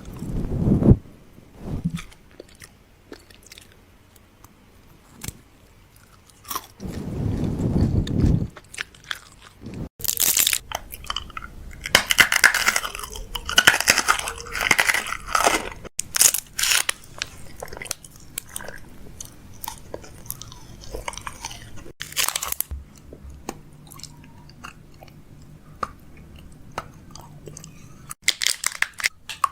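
Close-miked chewing and crunching of food: wet bites and crackling crunches in a run of short clips, broken by sudden cuts.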